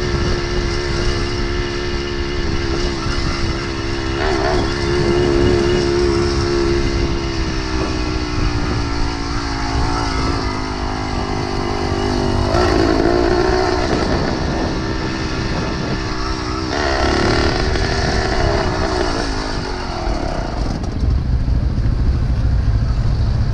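Small engine of a motorized bicycle running under way, its pitch sinking slowly and then rising again a couple of times as the throttle changes, with wind rumble on the microphone. For the last few seconds the engine drops back and the low wind rumble is the loudest thing.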